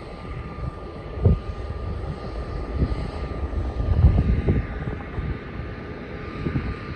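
Jet airliner engines rumbling steadily with a thin, steady whine, and a few short low thumps, the loudest about a second in and another around four seconds.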